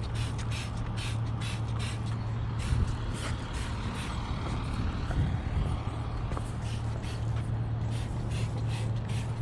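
Electric pressure washer running: a steady motor hum under the hiss of its water jet spraying the lawn mower, the hiss flaring and dropping every fraction of a second as the spray is swept across.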